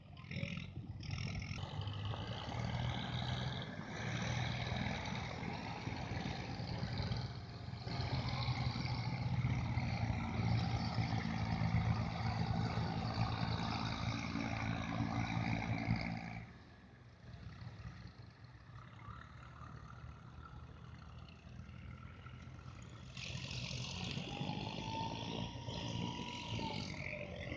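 Tractor engine running loud and steady, then dropping away suddenly about two-thirds of the way through; a fainter engine sound rises again near the end.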